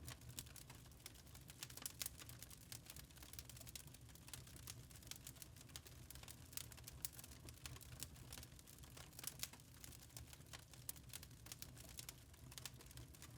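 Wood fire crackling: a dense run of small irregular snaps and pops over a low, steady rumble.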